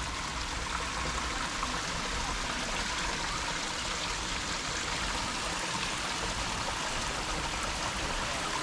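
Steady rush of running water, like a stream or waterfall, with no change in level.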